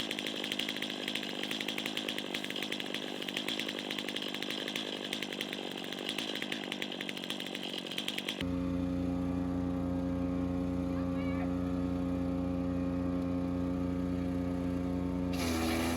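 Chainsaw running steadily under load as it cuts wood, likely on a chainsaw mill, for about eight seconds. It then cuts off abruptly into a steady hum of several held tones, whose pitch shifts near the end.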